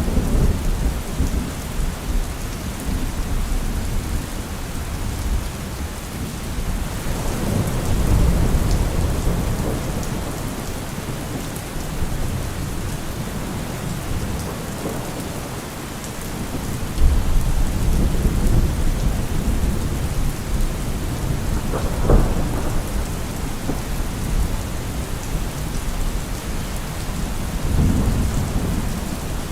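Heavy rain falling steadily, with deep low rumbles that swell and fade several times and one brief sharper crack about three-quarters of the way through.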